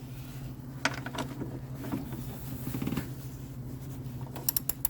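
Sharp metallic clicks and clinks from hand tools working on the car's suspension: a couple about a second in and a quick run of them near the end, over a steady low hum.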